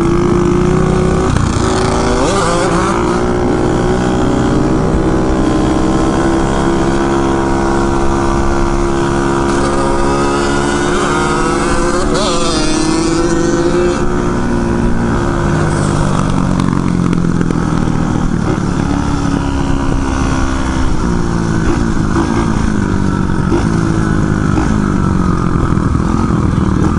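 600cc pit bike engine running under way, its pitch rising and falling gently as the throttle and speed change.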